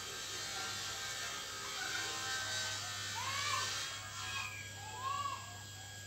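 A few short arching bird calls, about a second and a half apart, over a steady low buzzing hum.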